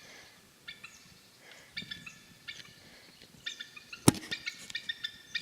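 Eagle calling from its nest: repeated bursts of short, high, chattering notes, the alarm of a bird disturbed by someone close to its nest. A single sharp click about four seconds in.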